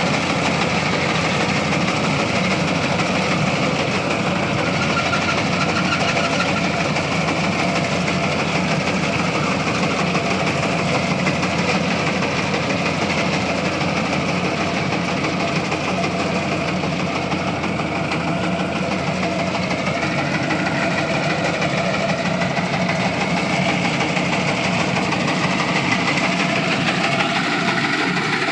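Tractor engine running steadily at an even speed, driving a cutting machine.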